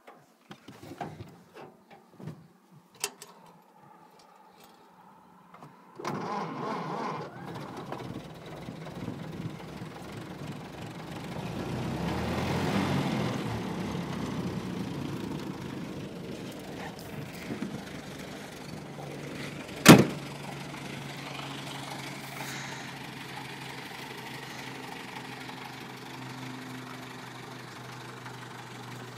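A few small clicks and handling noises, then about six seconds in a 1930 Ford Model A's four-cylinder engine starts, revs up and settles into a steady idle. One loud sharp bang cuts through the idle about twenty seconds in.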